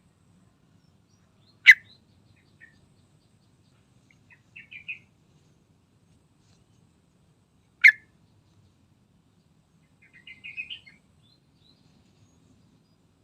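Yellow-vented bulbul calling: two loud, sharp short notes about six seconds apart, with softer, quick chattering phrases between and after them.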